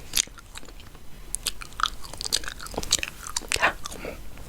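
Chewing gum close to the microphone, a run of irregular mouth clicks and smacks, several a second.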